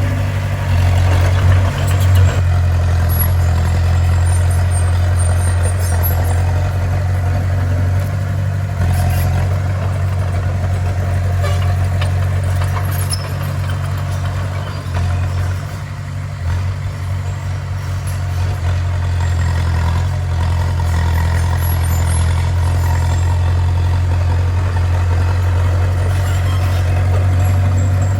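Bulldozer's diesel engine running with a steady deep drone, easing off briefly about halfway through.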